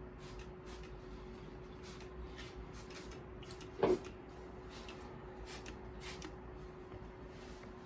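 Scattered light clicks and one louder knock about four seconds in, over a steady low hum.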